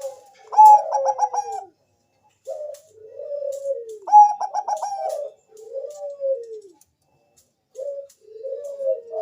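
Zebra dove (Thai-bred 'perkutut bangkok') cooing: two phrases that open with a quick run of stuttering notes, each followed by low, downward-sliding coos that repeat with short pauses.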